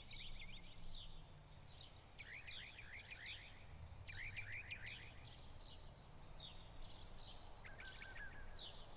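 Faint birds chirping in quick runs of short descending notes over a low, steady background hum.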